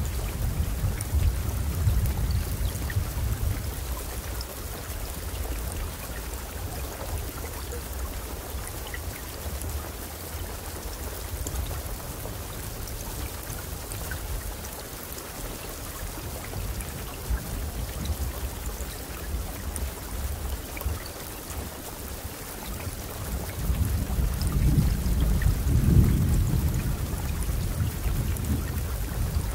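Steady rainfall hissing, with low rolling thunder that swells in the first few seconds and again loudest near the end.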